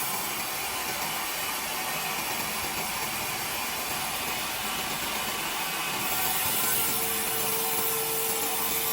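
Sawmill saw cutting through timber, a steady high hiss of the blade in the wood; a faint steady hum joins about two-thirds of the way through.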